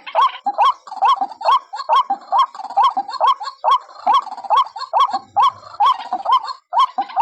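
White-breasted waterhen (ruak-ruak) calls played as a trapping lure: a short upswept note repeated a little over twice a second, each beginning with a sharp click.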